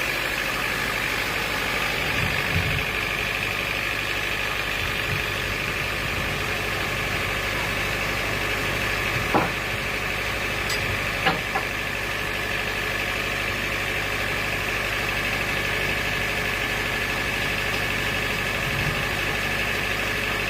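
Sawmill machinery running steadily with a constant high whine, with a few sharp knocks about nine and eleven seconds in.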